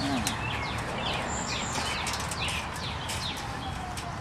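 Birds chirping repeatedly in short, falling notes over steady low background noise.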